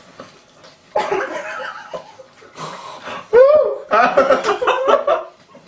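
People laughing: bursts of chuckling that start about a second in and get louder in the second half.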